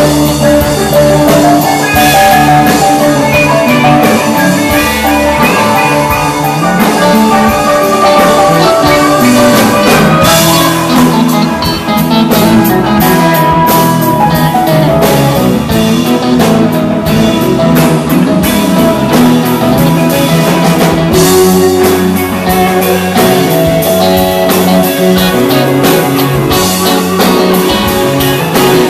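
Loud live band music with guitar and drum kit, playing continuously.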